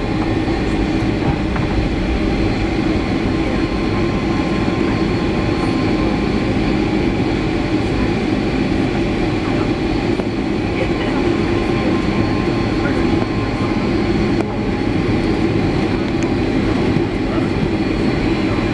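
Steady cabin noise inside a Boeing 757-300 rolling on the ground: a constant jet-engine hum over a low rumble from the wheels and airframe.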